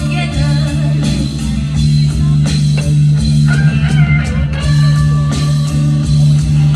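Rock music from a band: guitar lines with bent, gliding notes over a steady bass note and drum kit.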